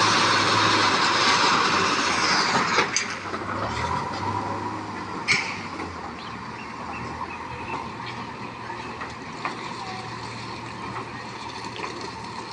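Train running past on the track, its rumble fading over the first few seconds, with a few sharp clanks along the way. A low steady hum continues underneath.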